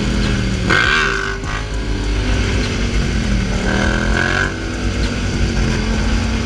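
Motorcycle engine running under way, with a steady drone whose pitch dips and climbs back twice as the revs change.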